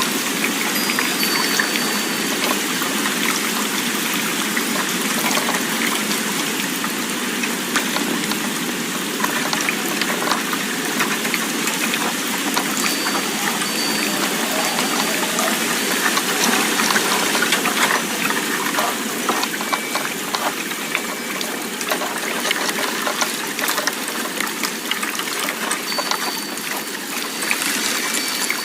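A steady rushing noise, thick with fine crackle, with a few faint, short, high wind-chime tones ringing now and then.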